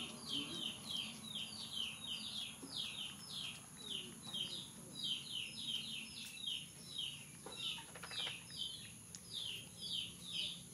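A small bird chirping over and over: short, high, downward-sliding chirps, about three a second, without a break.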